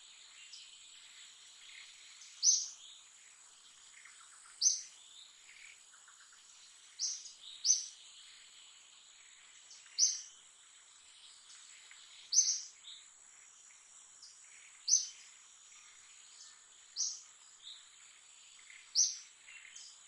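Outdoor wildlife ambience: a short, high chirp repeats about every two seconds over a steady, high-pitched insect drone.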